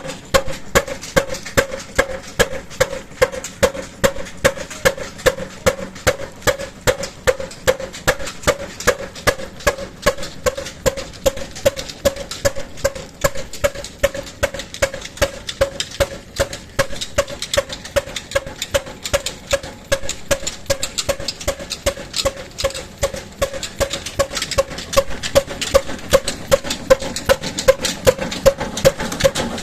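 Old 18 HP slow-speed diesel engine running steadily, its firing beats coming evenly at about three a second.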